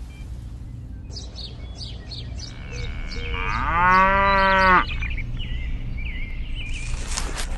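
A cow mooing once, one loud drawn-out call of about a second and a half that cuts off sharply. Short bird-like chirps come before it.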